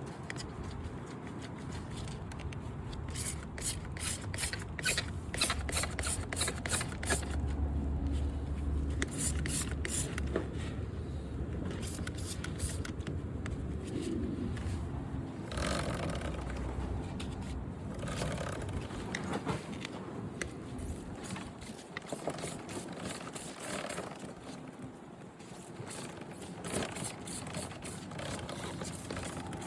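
Hand scrubbing on a motorcycle during a wash: runs of quick scraping strokes over a steady background noise.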